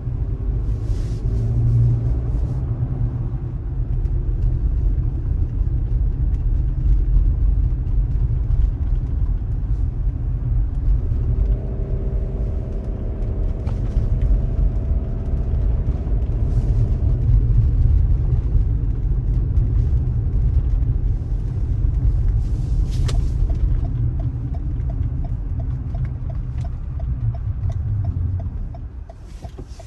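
Car driving, a steady low rumble of engine and road noise, with a faint steady hum in the middle.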